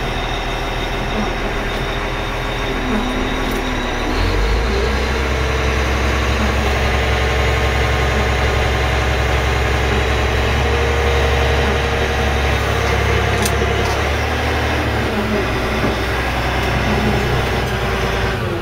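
Caterpillar 980G wheel loader's diesel engine running steadily. About four seconds in it settles into a deeper, louder note as it works harder, easing off again near the end.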